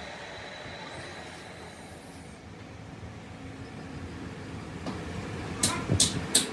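Steady workshop background noise, then about three sharp knocks in quick succession near the end.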